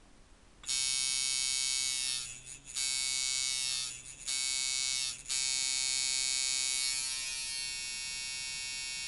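Rebuilt tattoo machine on a Chronos frame, set up as a long-stroke, hard-hitting liner, buzzing on 4.5 volts. It is switched on and off in three short runs, then runs steadily, settling a little quieter near the end.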